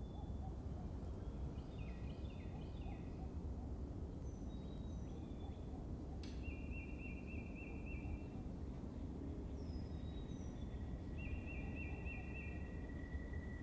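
Outdoor ambience: a low steady rumble with small birds chirping and trilling over it, a single sharp click about six seconds in, and a thin steady high tone from about ten seconds on.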